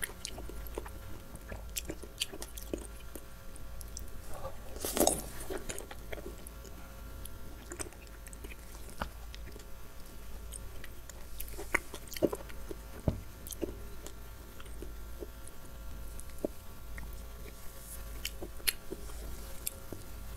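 Close-miked chewing of soft, juicy fruit, with wet mouth clicks throughout and a louder bite about five seconds in, over a faint low hum.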